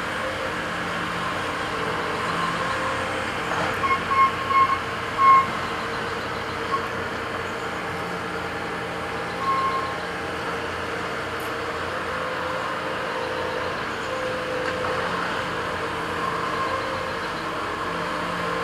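Heavy construction machinery with diesel engines running steadily. A handful of short, high beeps sound in an irregular cluster about four to five seconds in, with one more near ten seconds.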